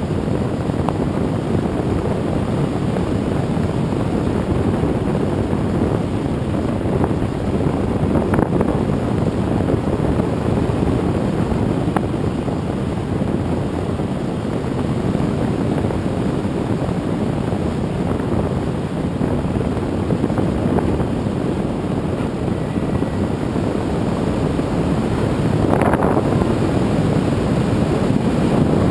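Steady propeller and motor noise of a radio-controlled aerial-photography airplane, picked up by its onboard camera, mixed with wind rushing over the microphone. There is a brief brighter swell near the end.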